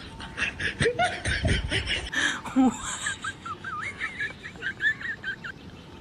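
A woman laughing in short repeated bursts, loudest over the first three seconds and then trailing off.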